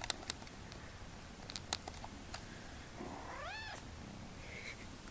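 A kitten gives one high meow about three seconds in, rising then falling in pitch. A few sharp clicks come before it.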